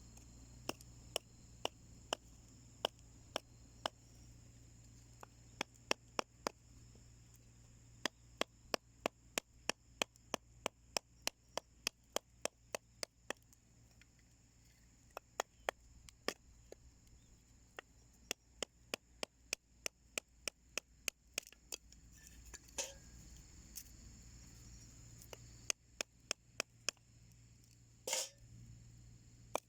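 Wood fire crackling in a small homemade wood stove: sharp, irregular pops, at times several a second, with two longer, louder snaps in the last third.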